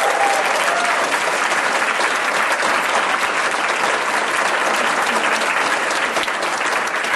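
Congregation applauding steadily in a hall, the clapping fading out just after the end.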